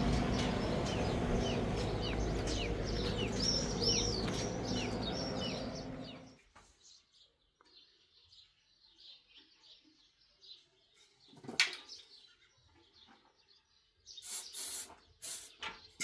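Small birds chirping, short repeated calls about twice a second, over a steady low rumbling noise with a hum that cuts off suddenly about six seconds in. Fainter chirps follow, with a single sharp knock in the middle and a few clattering knocks near the end.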